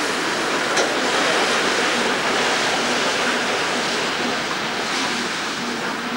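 Steady rushing noise of a train rolling past on the yard tracks, swelling about a second in and easing slightly toward the end.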